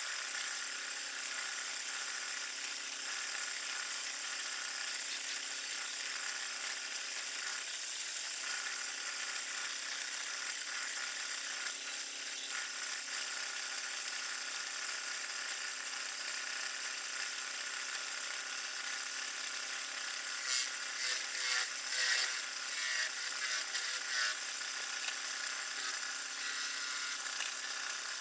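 Wood lathe running with a steady motor hum while a tool works against the spinning alder, with a few seconds of rougher, uneven scraping about two-thirds of the way through.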